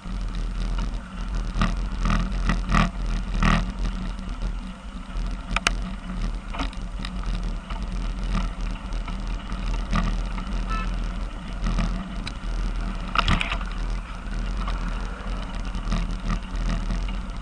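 Steady in-car road and engine rumble from a moving car, picked up by a dashcam, with scattered short knocks and clicks, the strongest about two to three seconds in and again about thirteen seconds in.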